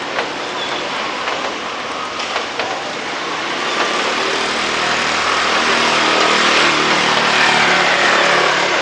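Steady rain hiss with a vehicle passing; its engine hum swells from about four seconds in and is loudest in the second half.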